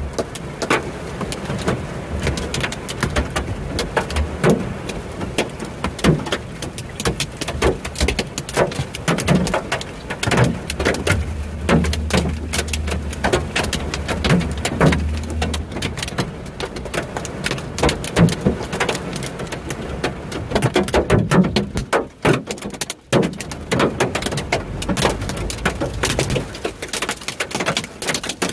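Hailstones hitting hard surfaces: a dense, irregular clatter of many sharp impacts that keeps up throughout.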